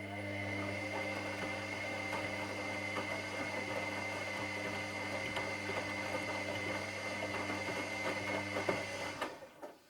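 Washing machine drum motor running with a steady hum and a high whine while the drum and load rattle. It stops about nine seconds in, the drum's turn-and-pause rhythm of a wash cycle, and a few clicks follow.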